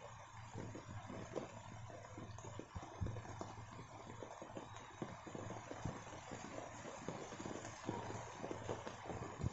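Rain falling and dripping onto broad elephant-ear leaves and wet ground: a steady hiss with a dense, irregular patter of drops. A faint low hum comes and goes underneath.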